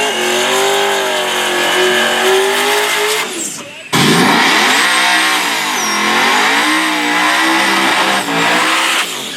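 Drag race car engine running at high revs, its pitch holding steady, then sagging and climbing again. The sound drops away briefly a little past three seconds in and comes back abruptly.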